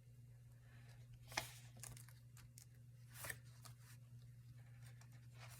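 Paper being handled: two brief rustles about a second and a half and three seconds in, with a few faint clicks, over a low steady hum.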